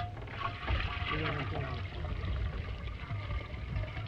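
Running water splashing and trickling, with faint voices of people talking and a steady low hum under it.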